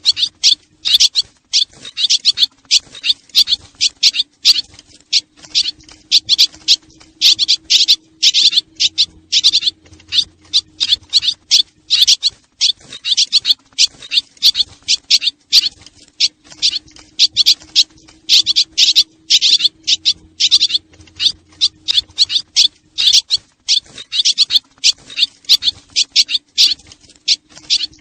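Swallows twittering in a dense, continuous stream of rapid high chirps, played as a recorded lure call to attract swallows.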